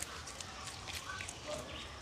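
Faint bird chirps over a low background, with scattered light clicks and taps.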